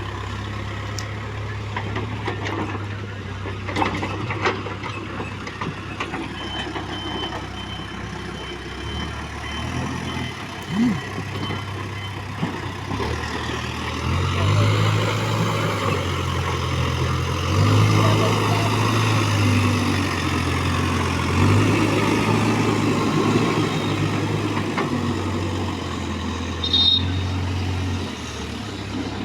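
JCB 3DX backhoe loader's diesel engine running steadily while digging, its note swelling louder in stretches during the second half. A few sharp knocks come in the first few seconds.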